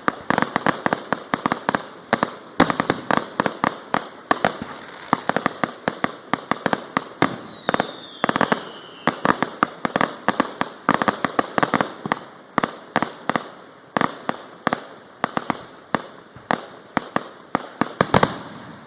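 Fireworks display: a rapid, continuous barrage of bangs and crackles, several a second, with a falling whistle about halfway through. The barrage stops near the end.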